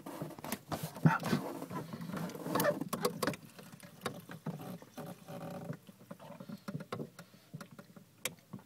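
Aquarium overflow siphon being started by mouth: irregular sucking and slurping with squeaks and clicks from the pipe.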